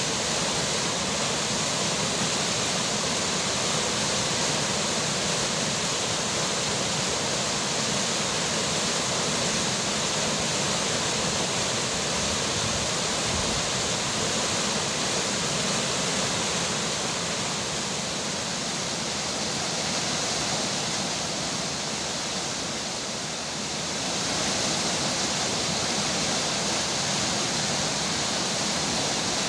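Flowing river water and falling rain in a steady, even rush. It softens slightly for a few seconds about two-thirds of the way through.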